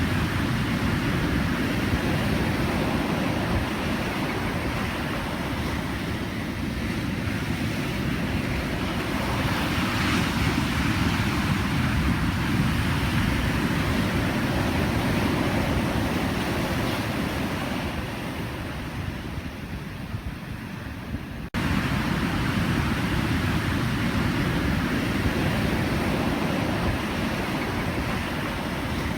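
Pacific Ocean surf washing in continuously, a dense low rumble of breaking waves. Around ten seconds in there is a brighter hiss, and it eases off shortly before jumping back to full level abruptly about 21 seconds in.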